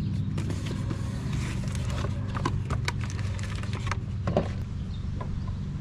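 Brake pads and hardware being handled and fitted at a disc brake caliper: irregular metallic clicks and knocks, the sharpest about four seconds in, over a steady low hum.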